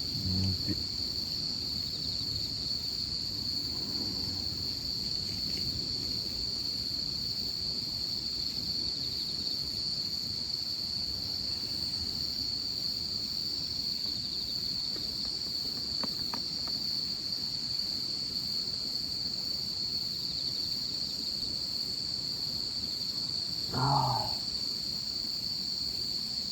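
Steady, high-pitched chorus of singing insects, unbroken throughout. A brief low voice-like sound comes at the very start and again near the end.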